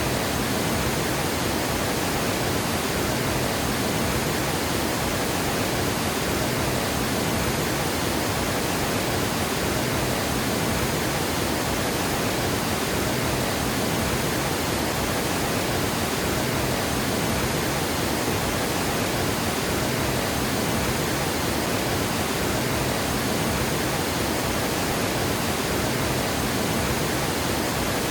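Water gushing over a dam spillway: a steady, unbroken rushing roar of falling water.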